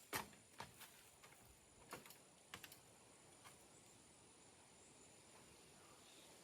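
A few faint, short clicks and light knocks over the first three seconds or so, the loudest just after the start, then near silence.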